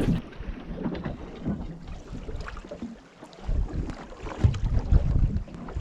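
Wind buffeting the microphone on a small boat in choppy water, with waves slapping the hull in irregular dull knocks, heaviest past the middle.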